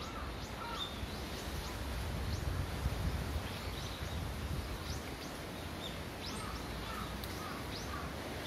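Small birds calling in woodland: many short, high chirps that fall in pitch, with a few lower notes among them, over a steady low rumble.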